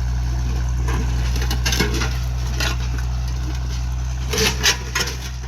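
Tractor engine running steadily at a low pitch while plowing. Over it come a few short sharp cracks and crunches, the loudest a pair about four and a half seconds in.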